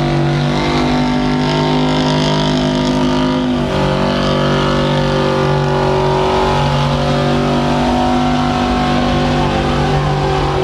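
Truck engine running hard at high revs while pulling a weight sled down the track, holding a steady pitch with a few brief dips and shifts along the way.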